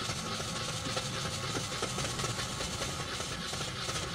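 2014 Kia Picanto's engine cranking steadily on the starter without catching: it turns over but will not start.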